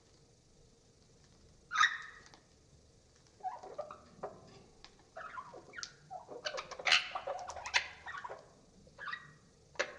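Budgerigar chatter played back slowed down, so the calls are lower and deeper than normal. A single sharp call comes about two seconds in, then a busy run of squawks and chirps, then two short calls near the end.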